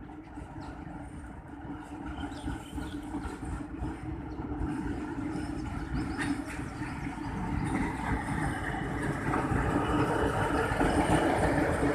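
Pakistan Railways HBU20 diesel-electric locomotive hauling a passenger train in, its engine hum and the rolling rumble growing steadily louder as it approaches.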